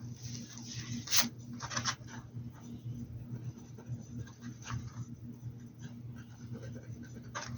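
Paintbrush scratching over a hat in short strokes, with a couple of sharp taps, over a steady low hum.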